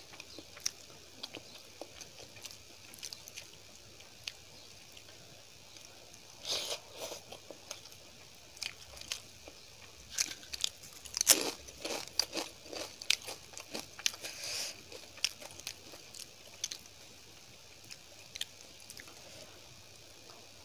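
Close-miked eating: chewing with crisp crunches and small clicks in irregular bursts, busiest about halfway through.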